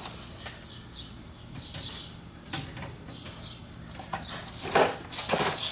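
Metal hand tools and sockets clinking and rattling in short, irregular bursts, louder in the second half.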